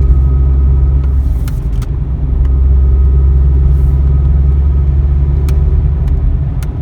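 Engine and road noise heard from inside a moving vehicle: a steady low rumble that eases briefly about two seconds in, with a few faint ticks.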